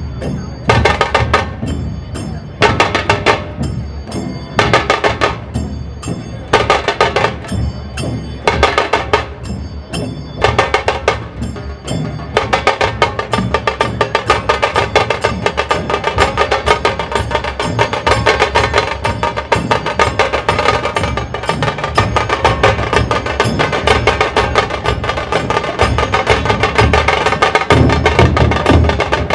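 Dhol tasha ensemble: big barrel-shaped dhol drums and sharp, cracking tasha drums beaten together. They play in short rhythmic phrases with brief pauses at first, then about halfway through break into continuous, fast drumming.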